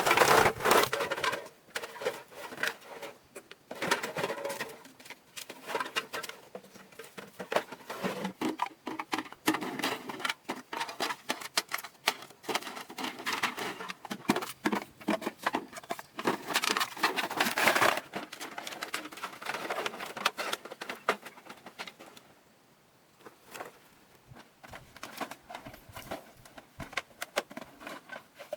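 Rapid, irregular clicking and tapping, with louder clusters near the start and about two-thirds of the way in, and a quieter lull shortly after.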